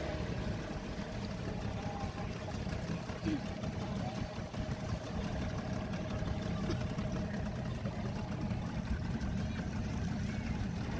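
A boat's engine running steadily, a low rumble with a constant hum over it, with people's voices in the background.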